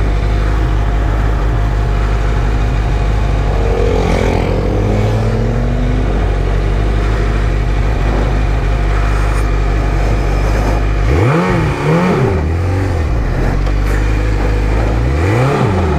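Sport bike engine running steadily under way over a constant rush of noise, then revved up and back down twice near the end, each rise and fall lasting about a second.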